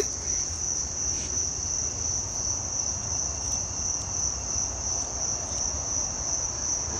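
Insects singing outdoors: a steady, unbroken high-pitched drone.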